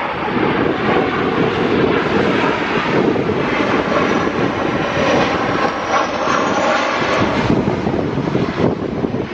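Boeing 737 airliner on approach, its jet engines running loud and steady with a faint high whine rising about two-thirds of the way in as the engines spool up to hold the approach against a gusty headwind.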